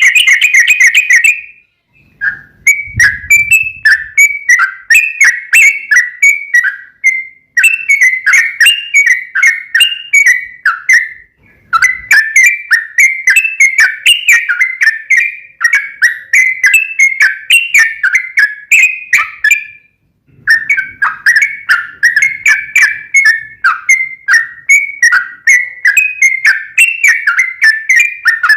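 Yellow-vented bulbul (trucukan) singing a long, fast run of repeated chattering whistled notes. The song breaks off briefly three times and resumes each time.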